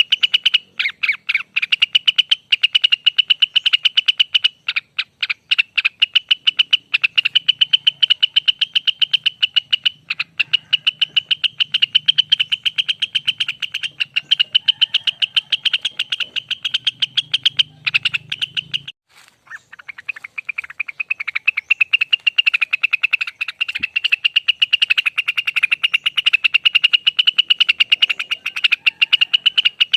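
Cucak wilis (rengganis) bird singing its long rapid trill (ropel panjang), a fast, high stream of rapidly repeated notes. It runs almost unbroken, with one short pause a little before two-thirds of the way through.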